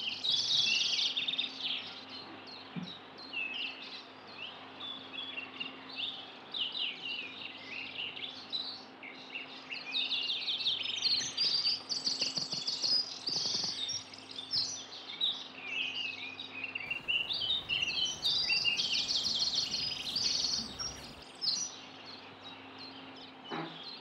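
Several songbirds chirping and singing at once, with quick trills, over a faint steady hum.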